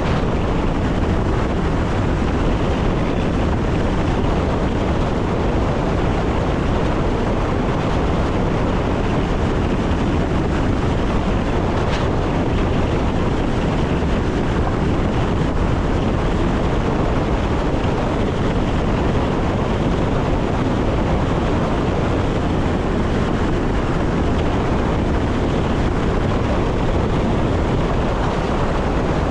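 Electric passenger train running along the line, heard from the driver's cab: a steady, even rushing noise of the running train.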